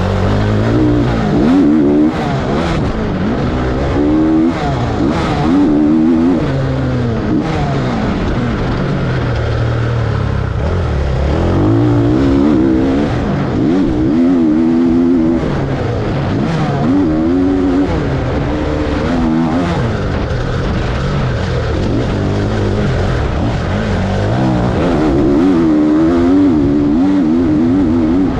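Motocross dirt bike engines revving, the pitch climbing and falling again and again as the bikes accelerate and back off, with more than one engine heard at once.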